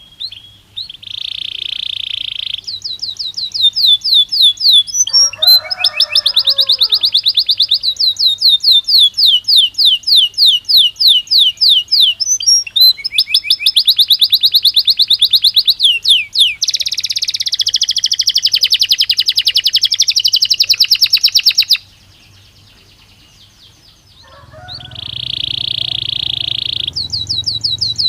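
Belgian canary singing: long runs of rapid, evenly repeated high trills and rolls. The song breaks off for about two seconds near the end, then starts again.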